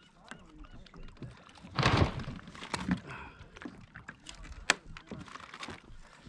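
Small sounds of a fishing kayak on the water: a brief loud rush of noise about two seconds in, then scattered knocks and clicks, with one sharp click a little past halfway.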